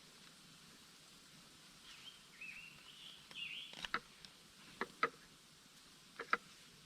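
A small bird sings a short warbling phrase, followed by three pairs of sharp clicks or taps about a second apart.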